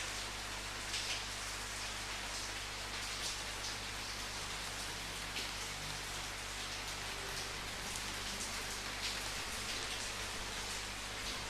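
Steady rain falling, pattering on a surface, with scattered louder drops now and then.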